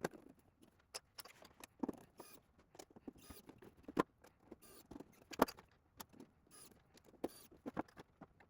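Irregular small clicks, taps and light rustling from fitting an acrylic top panel with 3D-printed plastic corner pieces and small screws, the loudest tap about five and a half seconds in.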